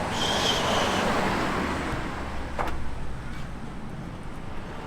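A road vehicle driving past, its noise swelling in the first two seconds with a brief high squeal inside it, then a single sharp click a little past halfway.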